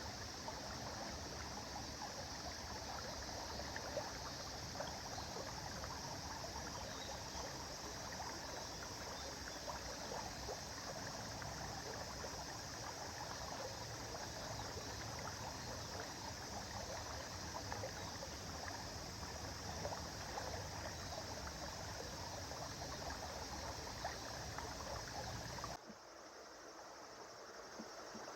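River water flowing, a steady rushing with small splashes throughout. Near the end the sound drops suddenly to a quieter level and then slowly builds back up.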